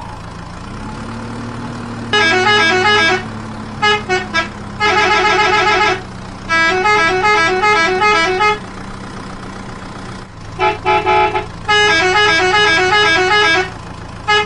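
A musical multi-tone vehicle horn honking out short tune-like phrases several times, over a steady engine hum that rises a little in pitch about a second in.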